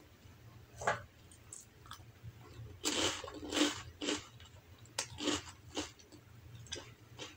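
A person chewing a mouthful of rice and side dishes, eaten by hand. The chewing comes in irregular bouts: a single chew sound about a second in, then clusters of chewing about three seconds in and again around five seconds in.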